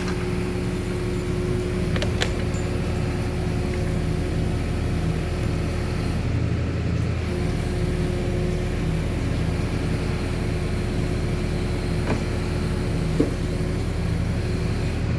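Engine running steadily at a constant speed with a low, even hum, driving the hoist that lowers a truck engine into place.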